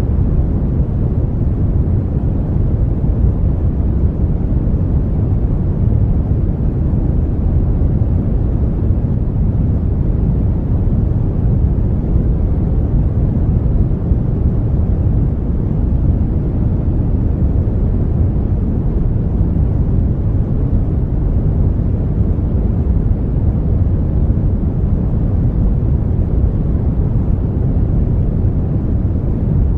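Steady brown noise: a smooth, deep rushing hiss with most of its weight in the low end, unchanging throughout.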